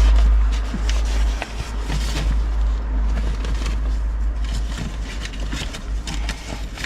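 Notebooks, binders and bags being handled and shifted, with irregular rustling, scraping and knocking over a steady low rumble.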